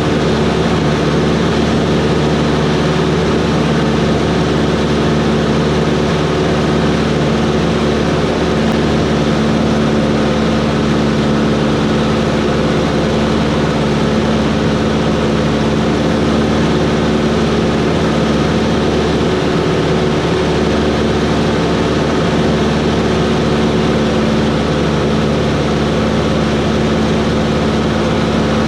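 Cessna 140's piston engine and propeller running at a steady, unchanging drone.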